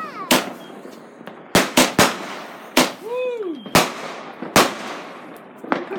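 Fireworks going off: a string of about eight sharp bangs at irregular intervals, some in quick succession around the two-second mark.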